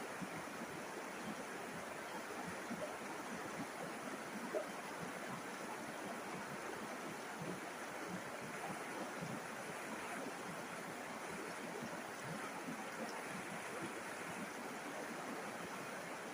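River water flowing in a steady, even rush, with many small splashes and gurgles through it.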